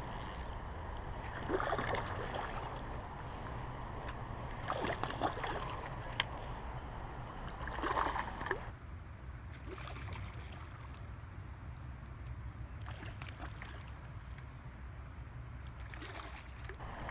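Splashing at intervals from a hooked smallmouth bass being fought in the creek, over the steady rush of the flowing water.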